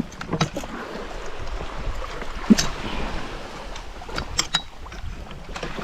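Scattered knocks and clicks of gear being handled aboard a small boat on the water, the loudest about two and a half seconds in, over a low rumble of wind and water.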